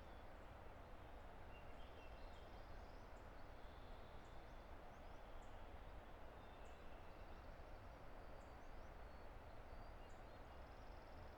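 Steady rushing of a distant river, with small birds calling and singing faintly over it in short, high chirps and whistles scattered throughout.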